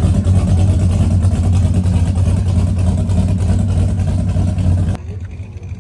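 A car engine idling close by with a loud, deep, steady rumble. The sound drops away abruptly about five seconds in, leaving quieter background noise.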